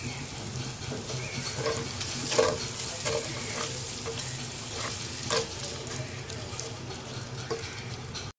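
Spice paste sizzling in hot oil in a pot as a slotted spatula stirs and scrapes through it, with a few sharper scrapes of the spatula against the pan. The masala is being fried down with a little water until the oil separates.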